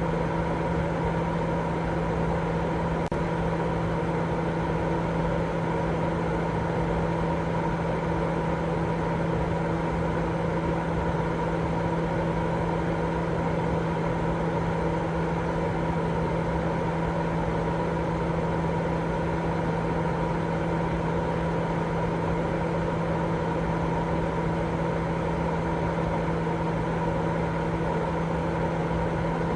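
Continuous white-noise sleep sound: a steady, even rushing noise weighted toward the low end, with a constant hum underneath. It does not change.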